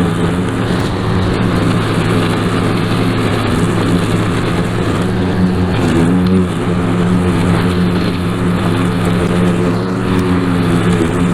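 Small gasoline lawn-equipment engine running steadily under load, with a brief dip and wobble in its pitch about six seconds in.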